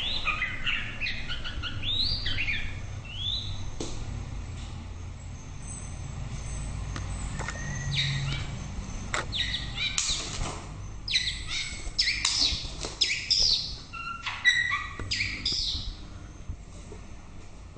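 White-rumped shama singing in bursts of quick, varied whistled phrases, with a lull in the middle and a busier run of song near the end. A few sharp clicks mix in with the phrases.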